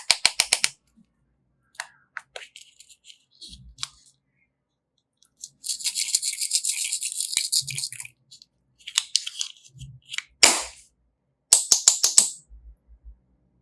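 Crackling, rattling slime-play sounds: several short bursts with sharp clicks, and one longer crackle lasting about two seconds in the middle.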